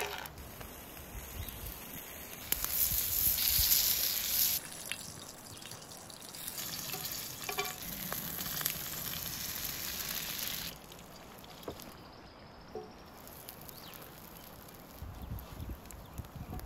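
Corned beef sizzling in a hot cast iron skillet as a metal spatula stirs it, then eggs and sausages frying in the pan. The sizzle is loudest in two stretches and drops away for the last several seconds.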